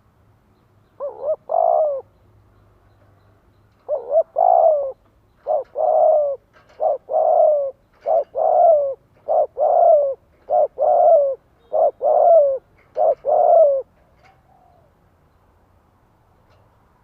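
Spotted dove cooing: a long run of repeated coo phrases, each one or two short notes and then a longer note that falls slightly at its end. The calls start about a second in and stop a few seconds before the end.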